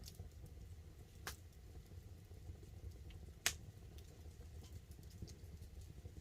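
Wood campfire crackling, with scattered small pops and two sharper snaps, the loudest about three and a half seconds in, over a low steady rumble. Light rain patters on the tarp overhead.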